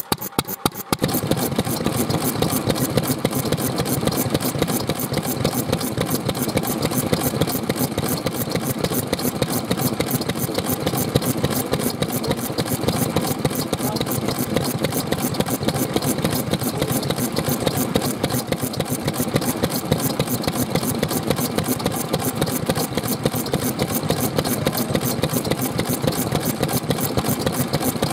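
Vintage stationary engines running: a slow, regular firing beat at first, joined about a second in by a louder, faster, steady chatter of engine strokes.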